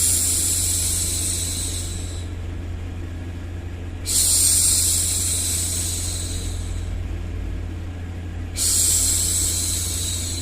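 A woman's voice hushing "shhh" to soothe a baby, three times at even spacing of about four and a half seconds. Each shush starts suddenly and fades away, over a steady low background hum.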